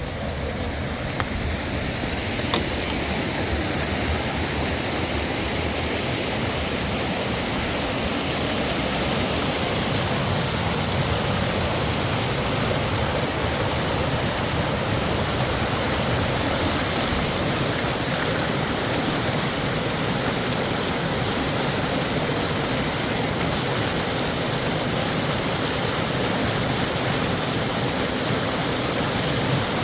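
Steady rushing noise, even and unbroken, with no rhythm or pitch.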